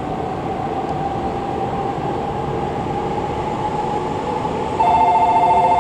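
Electric whine of a shinkansen train's motors, slowly rising in pitch. About five seconds in, a loud electronic two-tone trilling bell starts up, the platform's departure bell.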